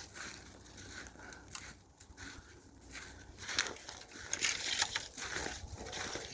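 Footsteps crunching through snow, sparse at first, then coming thicker and louder from about halfway through.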